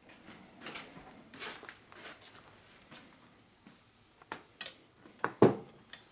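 Small metal tools being handled on a workbench: faint rustling and light handling noise, then a few sharp clicks and taps in the last two seconds, as a part is set up for measuring.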